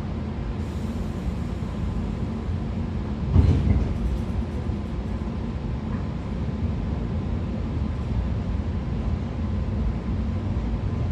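Interior sound of a 113 series 5700 subseries electric train motor car (MoHa 113-5716), a steady low rumble with a faint constant tone. One thump stands out about three and a half seconds in.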